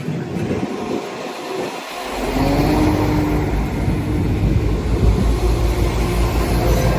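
Motor vehicle engine accelerating: a low rumble that swells about two seconds in, its pitch rising, then runs on steadily.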